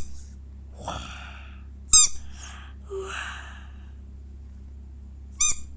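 Squeaky blue toy ball squeezed, giving two short high-pitched squeaks, about two seconds in and near the end, with soft breathy sounds between them.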